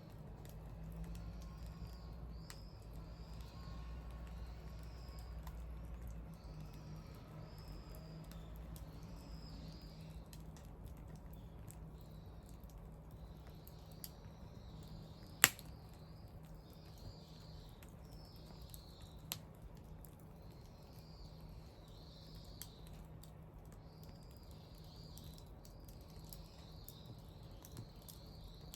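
Wood bonfire crackling softly with scattered small clicks and one sharp, loud pop about halfway through, plus a smaller pop a few seconds later. Faint high chirping repeats throughout, over a low steady hum.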